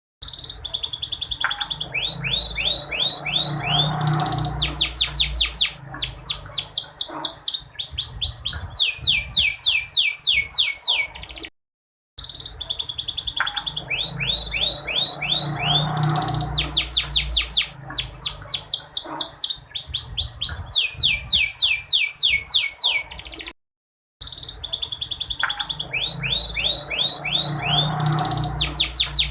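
Domestic canary song: rapid trills of sweeping high notes in quick succession. The same stretch of song loops about every twelve seconds, with a brief break between repeats.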